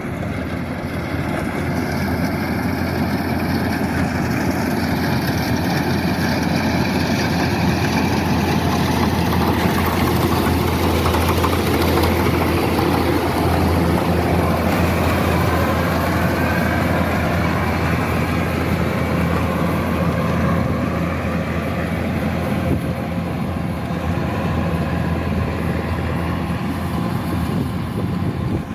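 Kubota DC-108X rice combine harvester running steadily, its diesel engine and machinery making a continuous loud drone.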